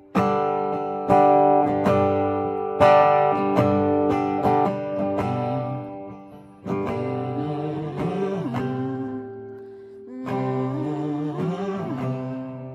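Live acoustic guitar strumming chords in an instrumental break of a ballad, with sharp strummed attacks at first and ringing, held chords later.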